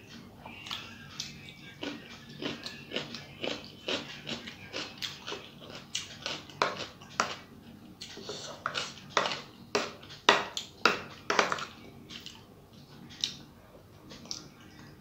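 Close-up eating sounds: chewing and lip-smacking with rice, a quick run of wet clicks and smacks, loudest about ten seconds in.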